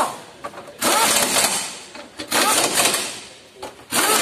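Pneumatic impact wrench run in short bursts, rattling and hissing as it spins bolts into the underbody cover. There are about three bursts, each rising in pitch as it winds up, and a fourth starts near the end.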